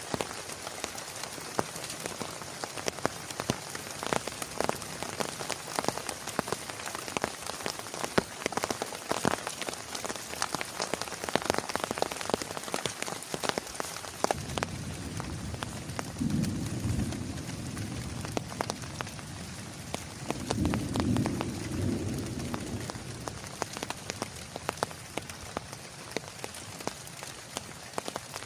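Heavy rain falling, with many sharp individual drop impacts ticking on a surface. From about halfway through, a low rolling rumble of thunder comes in, swelling twice before fading.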